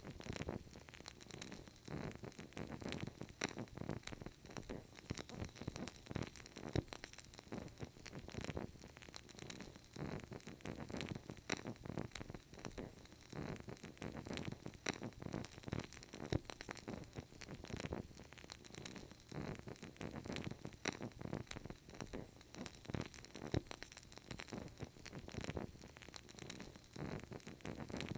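Burning candle crackling softly, with a steady stream of irregular small pops and ticks.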